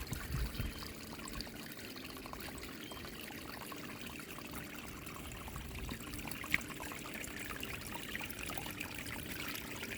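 Water trickling and splashing steadily as it overflows from a full rainwater tank, with one sharp tick about six and a half seconds in.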